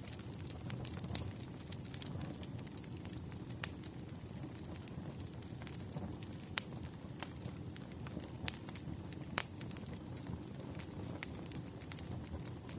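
Firewood burning, crackling: a steady low rumble of flame with scattered sharp pops and snaps, a few louder ones spread through.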